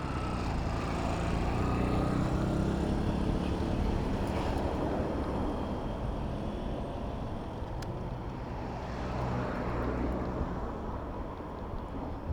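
City road traffic: a nearby motor vehicle's engine running, loudest a few seconds in and easing off later, over steady street noise.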